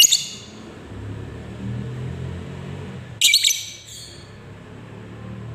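Lovebird giving two short bursts of shrill, rapid chattering calls about three seconds apart, over a low steady hum.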